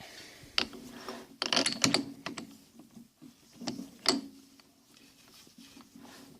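Metal tools and parts being handled: scattered sharp clicks and clinks, with a quick run of them about one and a half to two seconds in.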